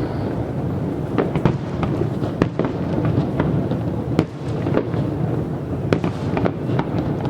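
Fireworks display going off continuously: many sharp bangs and cracks at uneven intervals over a steady rumble of bursts.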